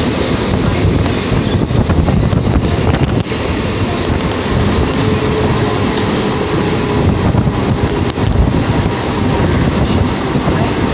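Mumbai suburban local train (electric multiple unit) running, heard from its open doorway: a steady rumble of wheels on the rails mixed with rushing air, with a few faint clicks.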